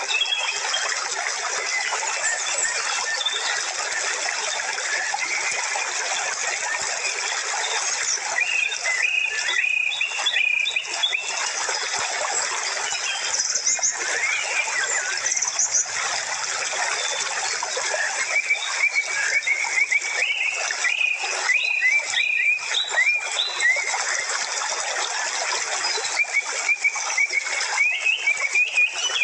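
Small birds chirping in scattered bursts of short quick calls, over a steady dense hiss.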